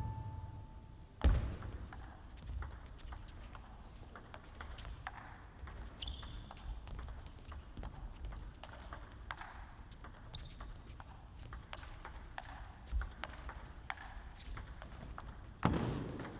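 Table tennis rally: the celluloid ball clicking off rackets and table in a fast exchange, with a loud hit about a second in and brief shoe squeaks on the court floor. Crowd noise rises near the end.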